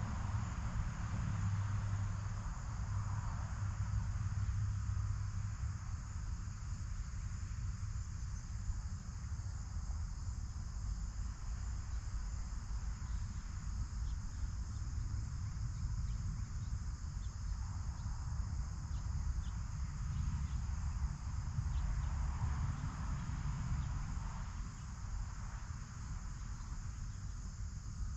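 Steady outdoor chorus of crickets, a continuous high-pitched trilling that does not change, over a low steady rumble.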